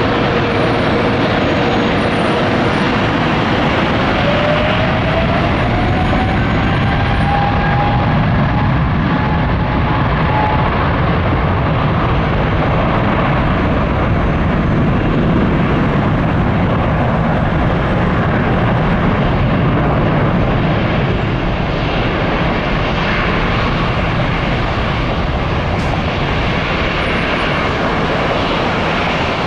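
Boeing 777-300 twin-engine jetliner at takeoff thrust, a steady loud roar with an engine whine that rises in pitch a few seconds in as the engines spool up for the departure roll.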